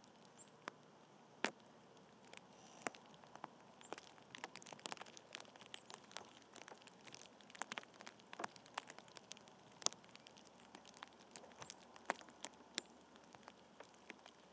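Irregular sharp light clicks and taps, several a second at their busiest in the middle, over a faint steady hiss.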